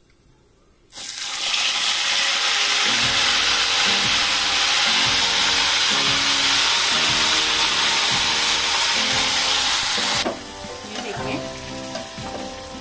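Marinated chicken pieces going into hot oil in a kadai: a sudden loud sizzle about a second in that stays steady, then drops quieter near the end as a spatula stirs and scrapes the chicken against the pan.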